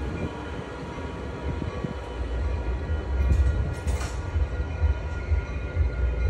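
Amtrak passenger train running at a station: a steady low rumble under a hum of steady tones, with a couple of brief hisses about three and a half to four seconds in.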